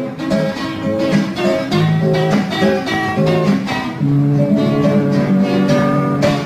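Recorded music: acoustic guitar picking a melody over sustained lower notes, with no singing.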